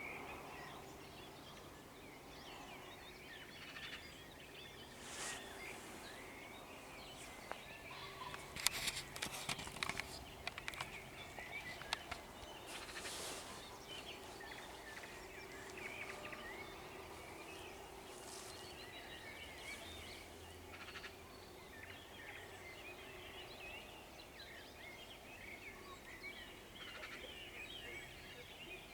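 Faint dawn chorus of songbirds chirping steadily over a meadow, with a cock common pheasant giving its harsh crow about a third of the way through.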